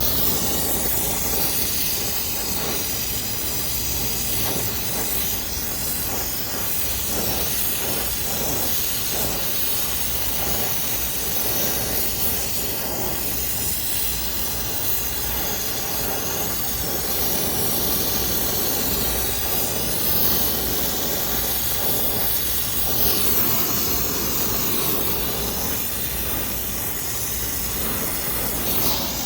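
Oxyacetylene torch burning with a steady hiss, its carburizing flame brazing copper refrigerant lines onto a replacement scroll compressor with silphos rod.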